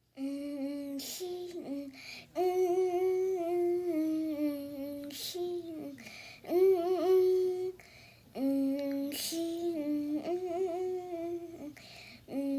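A voice humming a slow tune in long held notes, in phrases of one to three seconds with short breaks between them.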